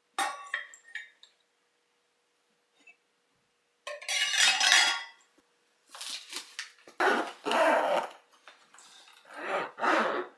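Cooking utensils and dishes being handled, clinking and scraping in a few short bursts with quiet pauses between.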